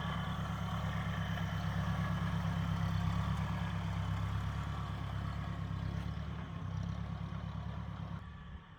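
Tractor engine idling steadily; it cuts off suddenly near the end.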